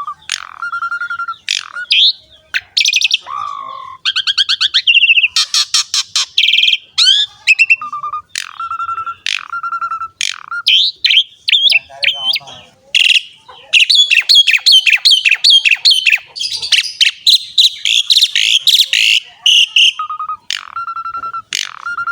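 Asian pied starling (jalak suren) singing a full, varied song: clear level whistles repeated again and again, broken by rapid trills and harsh chattering phrases. The song thickens into a long, dense run of chatter and trills past the middle, then settles back into the repeated whistles near the end.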